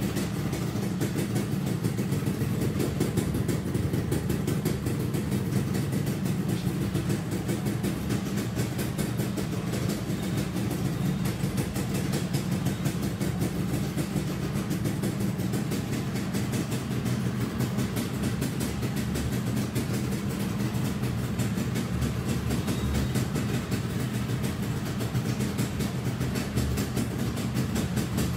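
Two-stroke underbone motorcycle engine idling steadily, run so that buyers can hear it.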